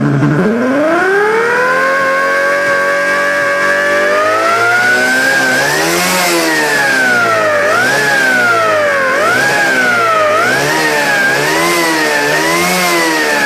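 Motorcycle sound booster playing a simulated big sport-bike engine sound. It starts suddenly and climbs to a steady run, then revs up and drops back about five times, like a bike shifting up through the gears.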